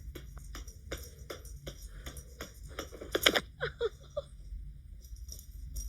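A run of light clicks and taps, about three a second, with one louder click about three seconds in, followed by a few short squeaky falling sounds.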